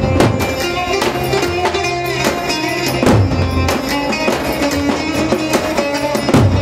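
Turkish wedding dance music played by a band, a melody over a steady drum beat.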